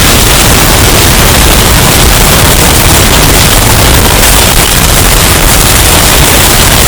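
Hurricane storm-wind sound effect, bass-boosted and distorted until it clips: a steady, very loud wall of noise with a heavy low rumble and no breaks.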